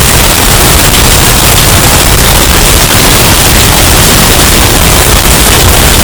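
Hurricane wind sound effect, bass-boosted and overdriven: a steady, very loud, distorted rush of noise.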